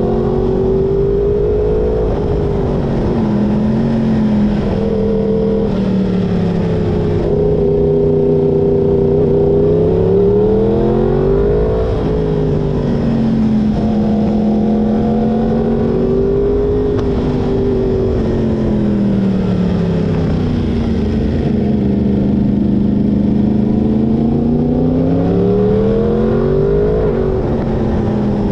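Yamaha crossplane inline-four sport-bike engine running under way, its pitch climbing and falling repeatedly as the throttle opens and closes.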